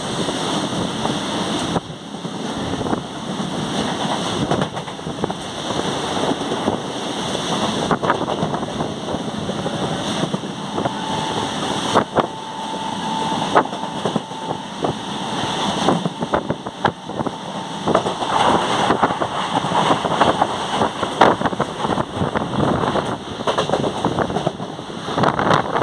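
Moving passenger train heard from aboard, a steady running rumble with frequent irregular clicks and clacks of the wheels over the rails, and wind buffeting the microphone. A faint steady whine comes in for a few seconds near the middle.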